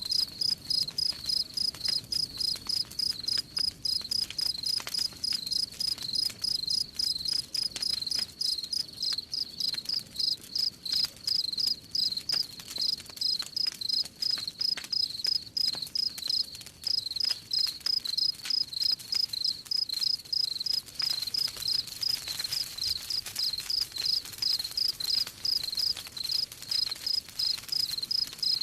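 Crickets chirping in a steady, evenly spaced rhythm, with the faint crackling of a wood fire underneath.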